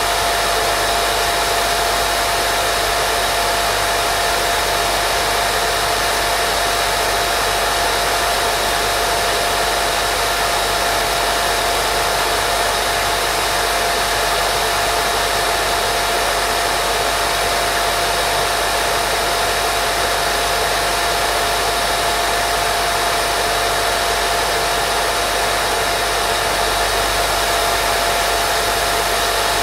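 Continuous white noise for baby sleep: an even, unchanging hiss with a thin steady tone running through it, like a hair dryer on a constant setting.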